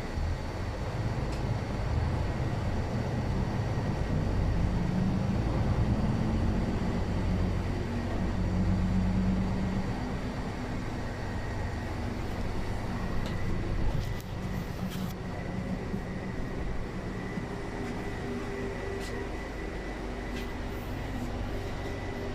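Interior of a city bus driving between stops: steady engine and road rumble. The engine note rises and is loudest over the first several seconds, then eases off about halfway through, with a few small rattles.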